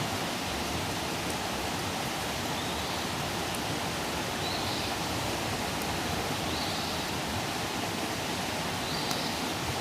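Campfire burning with a steady hiss and a few sharp crackles. Faint high chirps sound about every two seconds.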